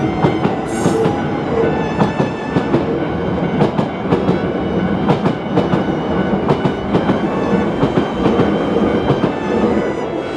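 A Hankyu electric train running by, its wheels clicking rapidly and unevenly over rail joints above a steady rolling rumble.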